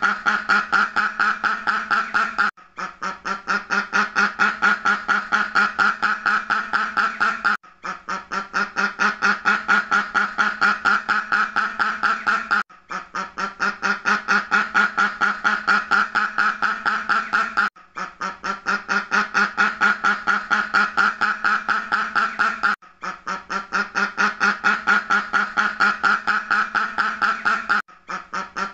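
Duck quacking in a rapid, unbroken string of calls, several a second. The run breaks off briefly about every five seconds and starts again, as a repeating loop.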